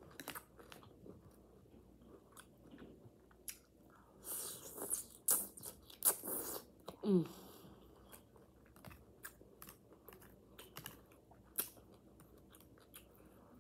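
Close-up eating sounds: biting into and chewing vegetables, celery among them, with crisp crunches and clicks. The loudest crunches come about four to seven seconds in, followed by a short falling hum.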